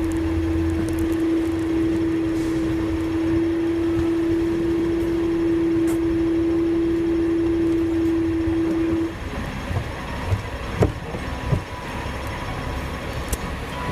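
Hong Kong tram running, with a steady hum that stops about nine seconds in, followed by a few knocks over a continuing rumble.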